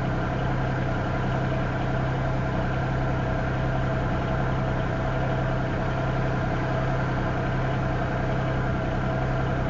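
An engine idling steadily: a constant low hum that does not change.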